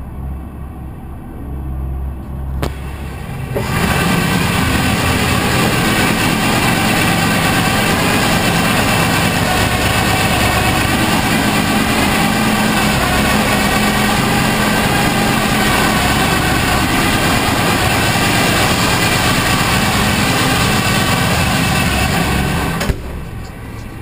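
360 cubic-inch small-block Chevrolet V8 running on an engine dyno: it idles at first, opens up about three and a half seconds in and runs loud and steady under load for about twenty seconds, then drops back to idle near the end.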